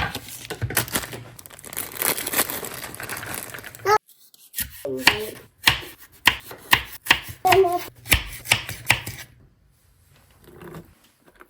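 Kitchen food-prep sounds: rustling and a run of sharp knocks, with a few brief bits of voice. The sound cuts off abruptly about four seconds in, picks up again, and fades near the end.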